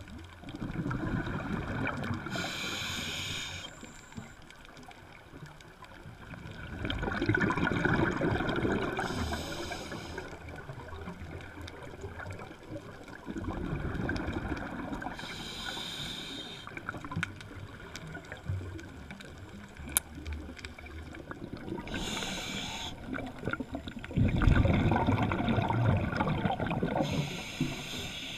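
Scuba diver breathing through a regulator: a short hiss on each inhale, then a longer low rumble of exhaled bubbles, repeating every six or seven seconds about four times.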